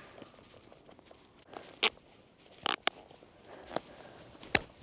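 Ice skate blades on snow-covered pond ice: a handful of short, sharp scrapes and clicks, spaced irregularly and starting about two seconds in.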